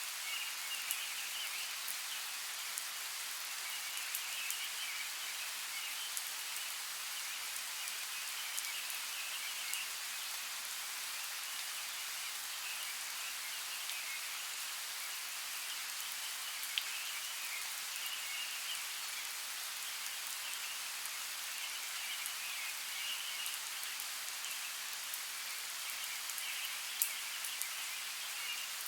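Steady hiss of water with scattered sharp drip-like ticks, and a faint high chirping chorus that swells and fades every few seconds.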